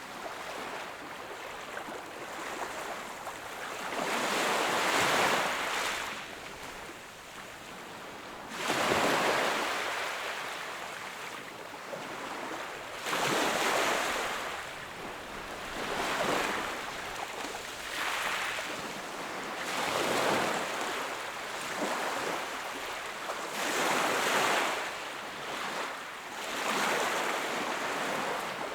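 Sea waves breaking on the shore and washing in, a new surge of surf every three to four seconds with a steady hiss between.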